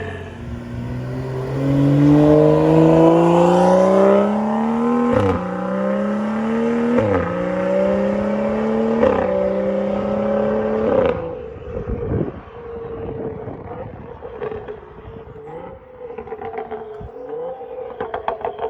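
BMW N55 turbocharged inline-six with a catless downpipe, non-resonated AWE mid pipe and Dinan muffler accelerating hard, rising in pitch through three quick upshifts. About eleven seconds in the throttle comes off and the exhaust crackles and pops on the overrun.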